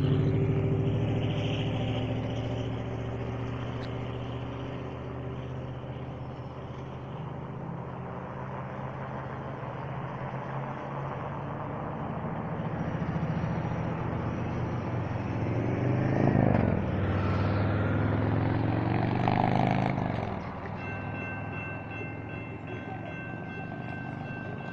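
Amtrak passenger train passing a grade crossing: diesel locomotive engine running with the train's rumble on the rails. It grows loudest about two-thirds of the way through as the train goes by, the engine's pitch sweeping as it passes.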